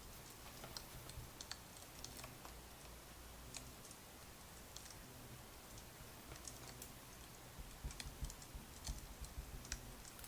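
Faint crackling firewood: scattered, irregular small pops and clicks over a low, steady background.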